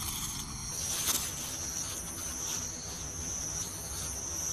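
Insect singing, a steady high-pitched trill like a cricket's.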